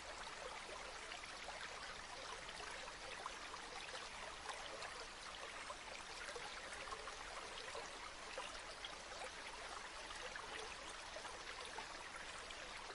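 Gently flowing river water: a steady, quiet babble flecked with many small trickles and splashes.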